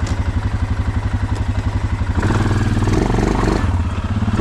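2011 Suzuki KingQuad 750 AXi's single-cylinder engine running with a steady pulsing at low revs, then picking up revs about two seconds in as the ATV is driven in four-wheel drive.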